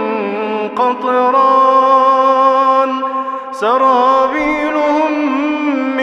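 Quran recitation in melodic tajweed: one voice holding long, drawn-out notes with slow bends in pitch, breaking briefly and sliding up again about three and a half seconds in.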